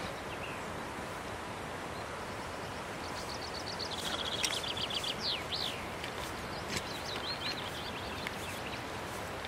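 A songbird singing from about three seconds in to near the end: rapid high trills and quick sweeping notes, over a steady outdoor rushing noise.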